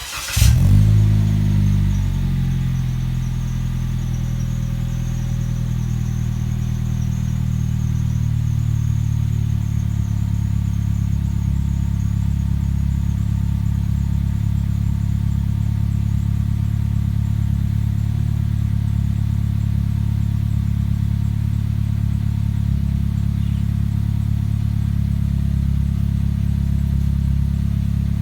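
Perodua Bezza's engine breathing through an aftermarket HKS S-Flow muffler, starting up with a brief flare as it catches, then settling into a steady idle.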